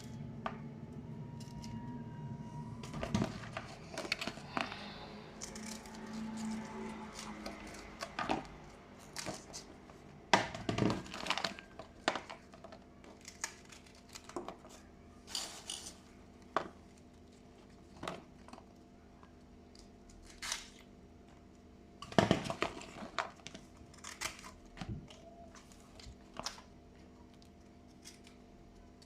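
Kitchen food-prep sounds: scattered knocks, clicks and rustling as dishes, utensils and vegetables are handled. A low hum is heard for the first three seconds.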